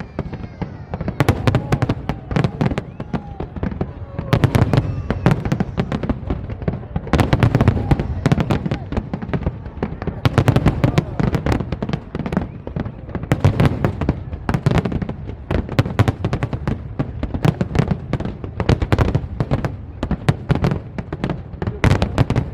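Fireworks display: a dense, continuous barrage of bangs and crackling shell bursts, several a second, over a steady low rumble.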